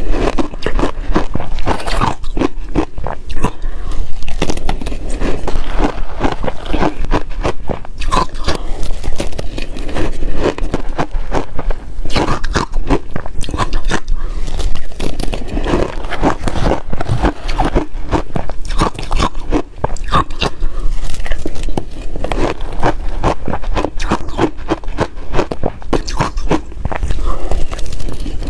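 Ice being chewed and crunched close to the microphone, a continuous run of loud crackling bites.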